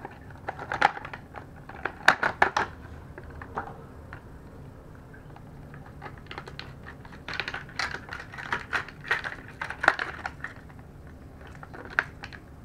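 Hard plastic crankbait lure and its packaging being handled: irregular sharp clicks and taps, in a cluster about two seconds in and again from about seven to ten seconds.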